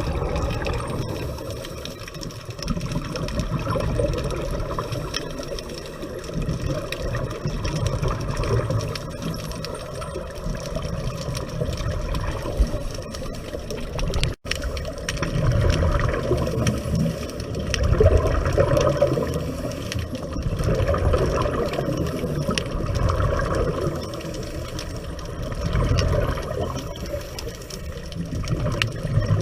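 Muffled underwater water noise from a scuba dive, swelling every few seconds with bubbling rushes. It cuts out for a moment about halfway through.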